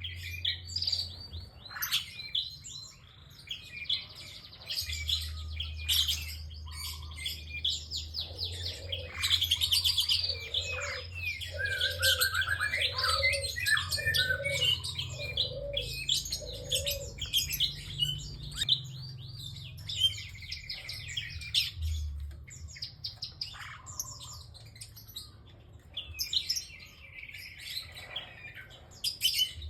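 Prinia singing: rapid, high chirping and trilling phrases, one after another, over a steady low hum.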